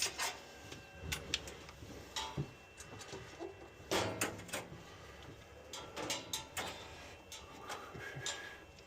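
Irregular clicks, clinks and short scrapes of a socket wrench and metal parts as bolts are undone on a boiler.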